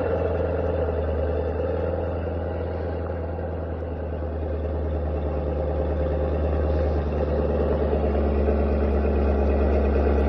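Callaway supercharged Corvette V8 idling just after a cold start, a steady deep idle. It dips slightly about four seconds in, then grows gradually louder.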